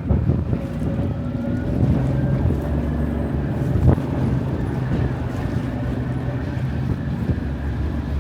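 River cruise boat's engine running with a steady low hum, with wind on the microphone. A single sharp knock sounds about four seconds in.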